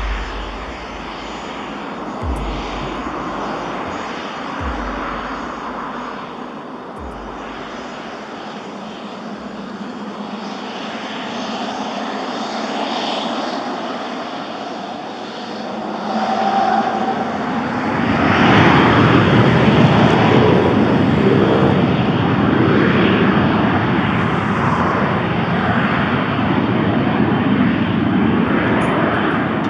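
Aircraft engine noise from a passing airplane, building gradually and then swelling sharply about eighteen seconds in and staying loud. A few low thumps come in the first several seconds.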